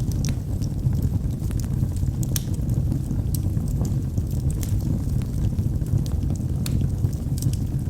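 Wood fire burning in a fireplace: a steady low rumble of the flames with irregular sharp crackles and pops from the burning logs, several each second.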